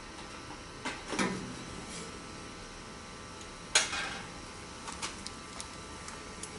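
Sheet-metal burner-compartment cover plate on a Rheem gas water heater being pulled off and handled. Two clanks with a short ring come about a second in, a sharper clank follows just before four seconds, and then a few light metal taps.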